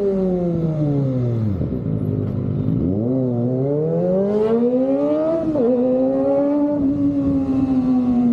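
Kawasaki ZX-25R's inline-four engine through an Austin Racing exhaust, riding: the engine note falls as the throttle is rolled off, then climbs again under throttle, dips briefly about five and a half seconds in, and then holds steady.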